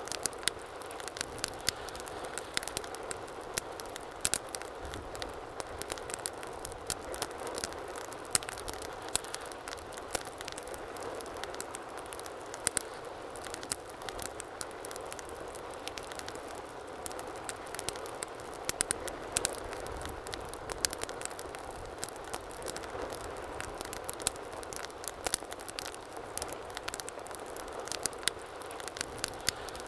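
Wood fire burning in a fireplace: a steady low roar of flames with frequent, irregular sharp crackles and pops.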